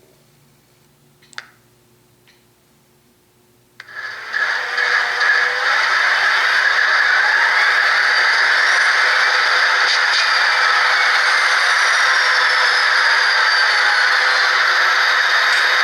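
Two faint clicks, then about four seconds in an HO-scale model diesel locomotive's DCC sound decoder comes on loud and holds steady through its small speaker: a hissing engine sound with tones gliding up and down.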